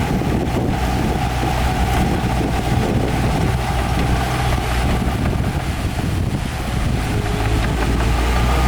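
Heavy earthmoving machinery, a bulldozer or dump truck, with its diesel engine running steadily. Wind is blowing on the microphone.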